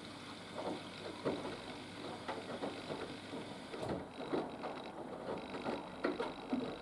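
Haier HW120 front-loading washing machine tumbling a wash: its drum turns with the motor humming while wet laundry and water slosh and thud irregularly. About four seconds in, a thin high motor whine sets in over it.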